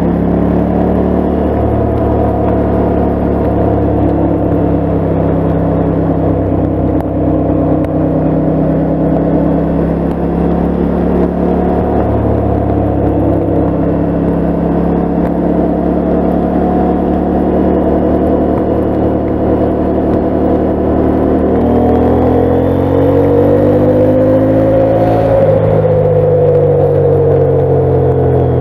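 KTM 890 Adventure's parallel-twin engine running steadily at road speed. About three quarters of the way through, the revs climb for a few seconds, then ease back down.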